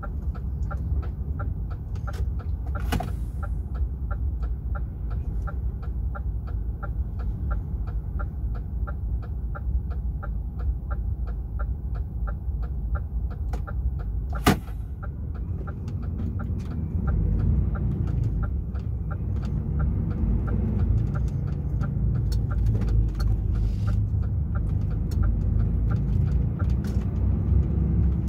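Inside the cab of a DAF XF truck: the engine runs with a steady rumble while the turn indicator relay ticks about three times a second. A sharp click comes about halfway through, and after it the engine grows louder, as when the truck pulls away.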